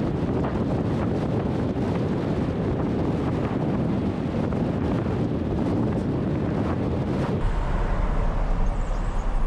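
Wind buffeting the microphone over the road noise of a moving vehicle, a dense steady rush. A little past two-thirds of the way in, it changes abruptly to a thinner sound over a steady low hum.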